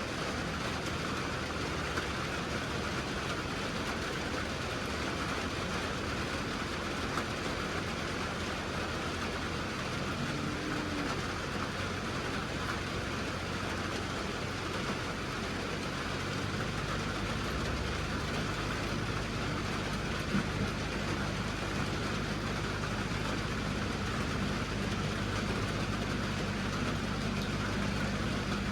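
Vehicle engine running steadily under a constant hiss. A little past halfway, a deeper, steady engine hum joins in.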